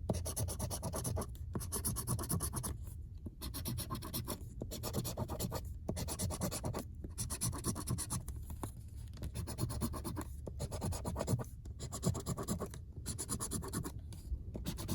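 Scratch-off lottery ticket being scratched, the silver coating scraped away in repeated strokes about a second long with short pauses between them.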